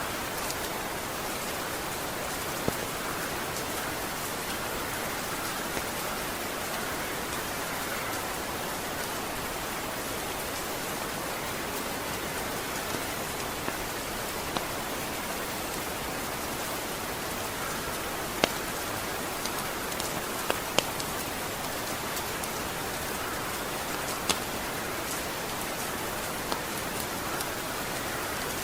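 Steady rain: an even hiss of rainfall with a few sharp drop ticks now and then, several of them in the second half.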